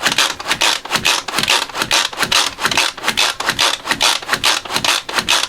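Pampered Chef manual pump-action food processor pumped quickly, about three to four strokes a second, each stroke a raspy whir of the spinning blades chopping pesto.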